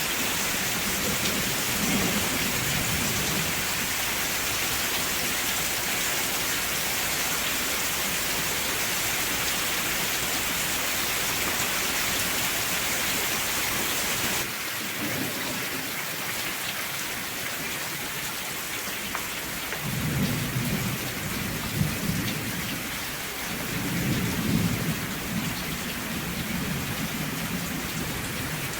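Steady rain hissing, its tone changing abruptly about halfway through. Low rumbles of thunder roll in about two-thirds of the way through and again shortly after.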